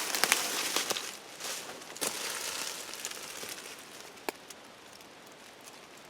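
Dry brush and twigs rustling and crackling as someone pushes through undergrowth, with a few sharp snaps of twigs. It is loudest in the first two seconds and grows faint after about four seconds.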